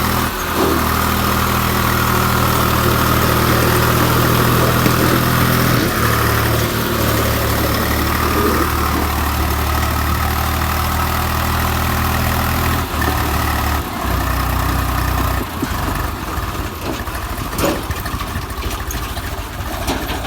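Swaraj 834 XM three-cylinder diesel tractor engine running steadily, its note shifting in pitch a few times. About three-quarters of the way through, the steady engine note breaks up into a rougher, noisier sound.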